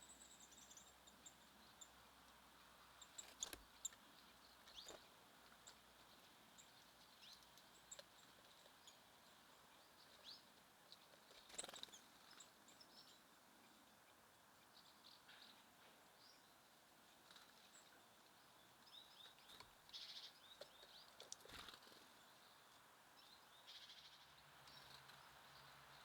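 Faint, scattered short chirps and calls of small songbirds, with a few sharp taps or knocks now and then.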